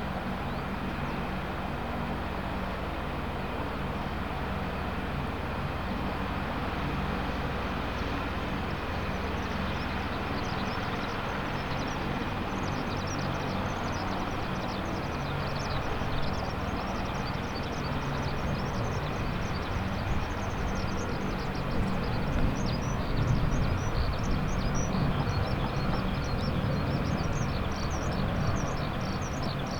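Boeing AH-64D Apache helicopter running, a steady mix of turbine whine and rotor noise, growing louder in the second half.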